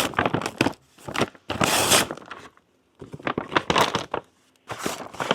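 A paper or plastic mailer envelope being torn open and crinkled by hand, in several rough bursts with a brief pause about halfway through.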